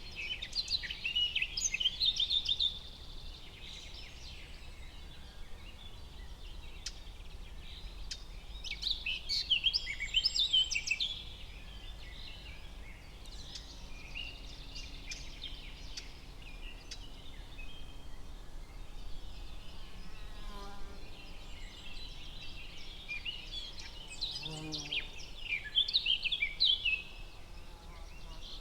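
Forest ambience: songbirds singing in rapid chirping phrases, loudest in three bursts about a second in, around eight seconds in and near the end, over a steady low background rumble.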